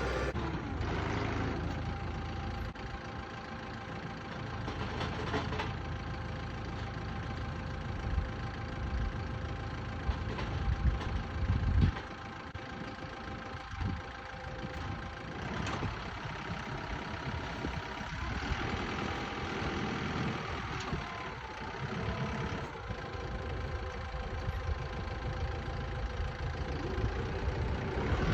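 Truck engine running steadily, with its pitch rising and falling a few times and occasional knocks and clunks over it.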